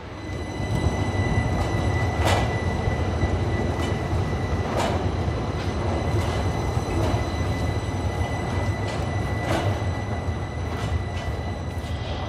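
A train running along the platform, rising in loudness about half a second in: a steady low rumble with a steady high-pitched whine over it and occasional sharp knocks from the wheels.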